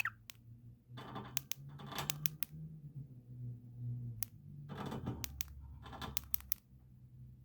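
Sharp clicks and rustling in two clusters, about a second in and again about five seconds in, over a faint steady low hum.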